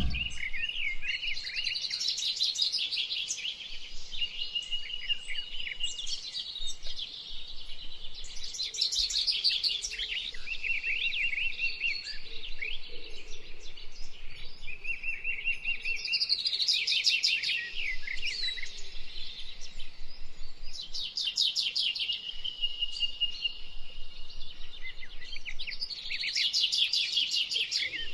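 Several birds singing and chirping, with bursts of rapid high trills every few seconds.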